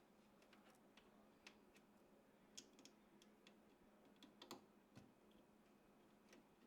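Near silence, with faint, irregular light clicks and taps of small computer parts being handled during PC assembly, a little busier about halfway through, over a faint steady hum.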